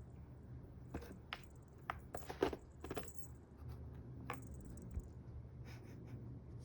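A series of light, irregular clicks and taps, most of them bunched together about two to three seconds in.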